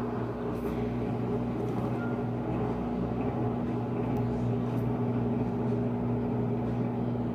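Panasonic 14 kg washing machine's drain pump running with a steady hum.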